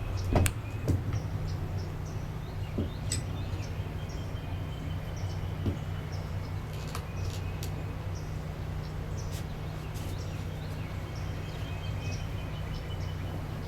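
Wetland bird colony ambience: scattered short bird chirps and calls over a steady low rumble.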